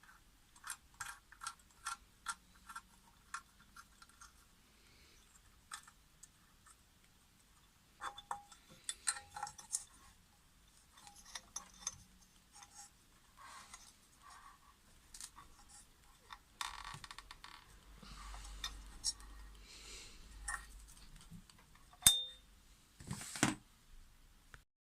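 Light clicks, taps and clinks of small hard parts and tools being handled, with a brief patch of soft rubbing or rustling and one sharp click near the end.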